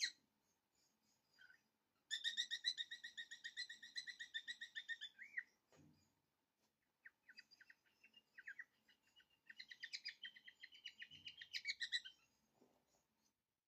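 A bird singing in two runs of fast, trilled chirps, each lasting a few seconds, with a short pause between them. The sound opens with a brief sharp click.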